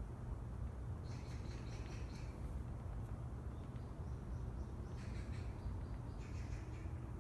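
Small birds chirping in short runs of high calls, about a second in and again around five and six seconds in, over a steady low rumble.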